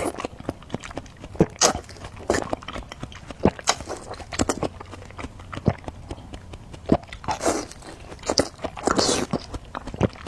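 Close-miked crunching and chewing: irregular sharp, crisp bites and mouth clicks, with two longer crunches in the second half.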